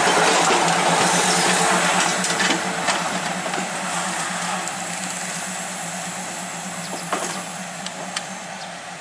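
Diesel railcar train rolling along the track and pulling away: the rumble of its engine and wheels on the rails, loudest as it passes and fading steadily as it moves off. A few sharp clicks near the end.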